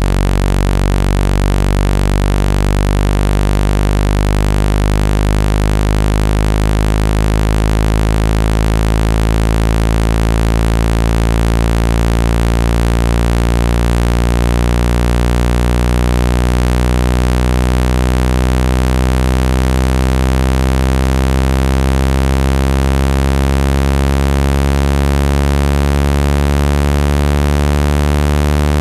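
Synthetic low buzzing tone, rich in overtones, that slowly rises in pitch. It is a speaker-cleaning tone, played to vibrate water out of a phone speaker.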